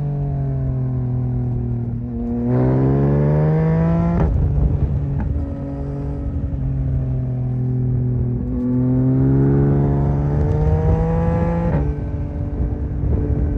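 Yamaha MT-09's three-cylinder engine under way, pulling hard twice with its pitch climbing steadily. Each pull ends in a sharp drop in pitch at an upshift, one about four seconds in and one near twelve seconds. Between the pulls the engine holds a steady pitch.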